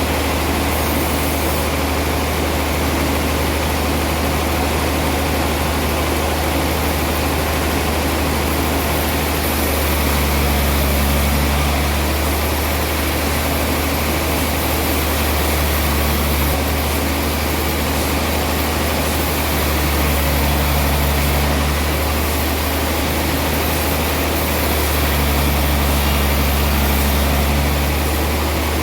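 Sawmill machinery running steadily with a deep hum while sawing a large trembesi (rain tree) log, swelling a little louder three times.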